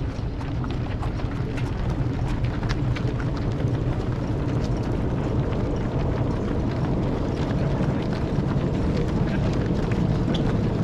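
Footfalls of a dense stream of marathon runners passing on the road: many small, irregular shoe strikes over a steady low rumble.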